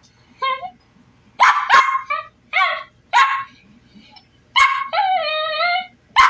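A dog vocalizing in answer to its owner: four short, pitched bark-yelps, then a longer drawn-out whine-howl that wavers in pitch, about four and a half seconds in, then another yelp at the very end.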